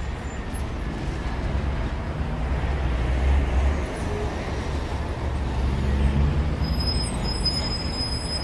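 City street traffic heard while riding a bicycle: a steady low rumble under a noisy wash that swells twice. A thin, high-pitched squeal comes in near the end.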